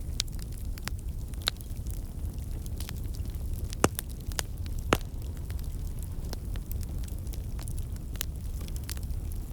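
Wood fire crackling in a fireplace: a steady low rumble of flames with irregular sharp pops and snaps, the two loudest about four and five seconds in.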